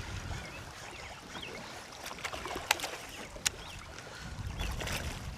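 Sounds of a kayak on a river: a steady low rumble of moving water and wind, with a few sharp clicks or knocks from handling gear, two sharper ones near the middle.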